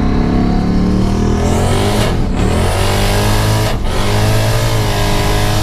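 Turbocharged 5.0 Coyote V8 of a 2011 Mustang GT pulling at full throttle, heard from inside the car. The engine's pitch climbs, breaks off briefly and drops about two seconds in and again nearly four seconds in as the Turbo 400 automatic upshifts, then climbs again each time.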